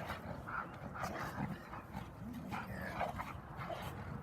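A dog making a string of short sounds, roughly one every half second.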